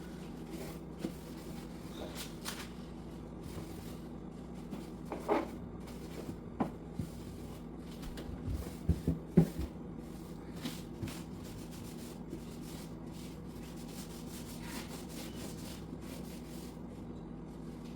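Wiping and rubbing on surfaces with scattered knocks and clatters of things being handled, the loudest a quick cluster of knocks about nine seconds in, over a low steady hum.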